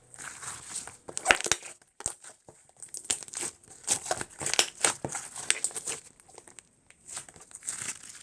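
Slime being squished and worked by hand, an irregular run of sticky crackles and clicks that stops near the end.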